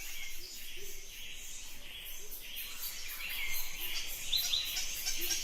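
Natural forest ambience: small birds chirping repeatedly over a steady high insect hum, with a faint low call repeating about twice a second.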